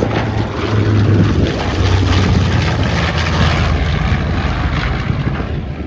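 Propeller airplane flying past, its engine drone loud and steady and dropping slightly in pitch.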